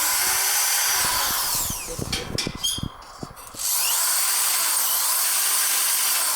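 Electric drill running in two bursts, spinning up with a rising whine and winding down at the end of each. There are a few sharp clicks in the pause between the runs, about halfway through.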